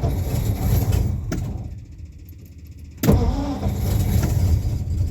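Old vehicle engine on a cold start: it runs unevenly, fades out about two seconds in, then is cranked again a second later and fires, running with a heavy low rumble. The engine is struggling to start and stay running.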